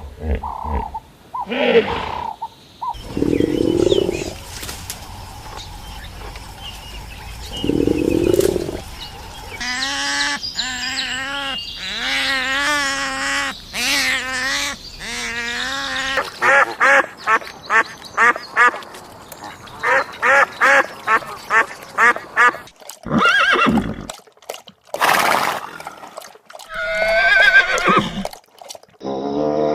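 A montage of different animal calls, one after another: two low calls, then long wavering calls, then a run of quick repeated calls, with a few sharp bursts near the end.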